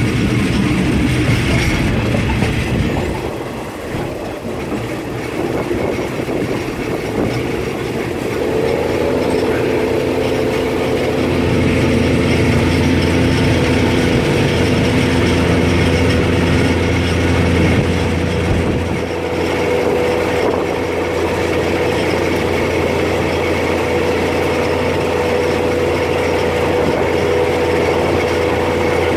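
Diesel railcar train running along the track, heard from inside the carriage: a continuous rumble of wheels on rail with a steady engine drone whose tones come in about eight seconds in and grow stronger soon after.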